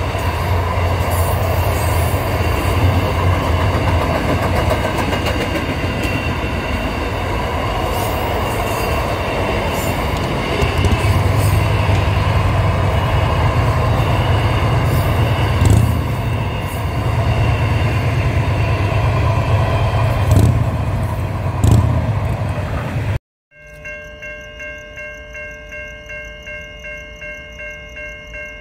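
A long intermodal container freight train passing close by: a steady rumble and rattle of wagon wheels on the rails, with occasional sharp clicks. Near the end it cuts off suddenly and a level crossing warning bell rings about twice a second.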